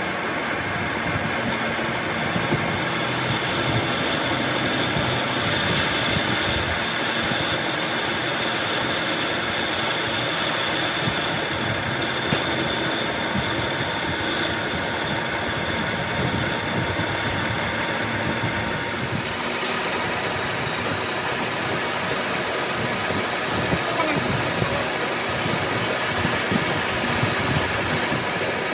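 A workshop machine running steadily, with thin high whining tones over the noise that stop abruptly about two-thirds of the way through while the machine keeps running.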